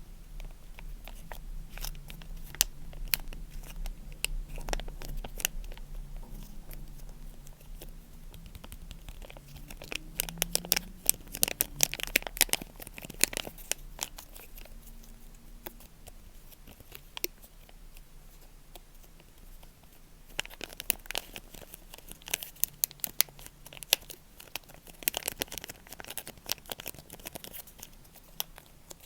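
Crinkly material being crumpled and torn close to the microphone: dense bursts of crisp crackles, heaviest around the middle and again in the last third.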